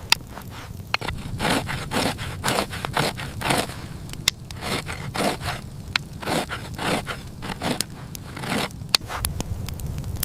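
Repeated hand scraping strokes, about two to three a second, with sharp clicks among them.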